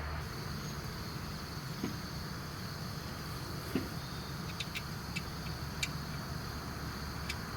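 A few light, scattered metallic clicks and taps of the injection pump being handled and fitted into place on the engine, over a steady low hum and insects chirping in the background.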